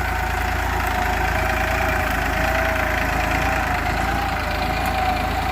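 New Holland 3230 TX Super Plus 45 hp tractor's diesel engine, fitted with an inline injection pump, running steadily under load while pulling a two-bottom mouldboard plough. A steady whine that wavers slightly in pitch rides over the engine noise.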